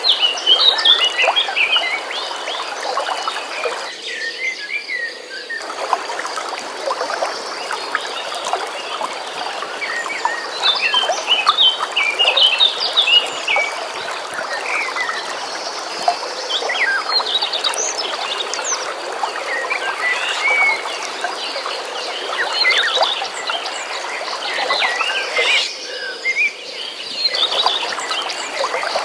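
Many small birds chirping and singing in short, quick phrases over the steady rush of flowing stream water, with a continuous high trill under them. The water sound drops out briefly about four seconds in and again near the end.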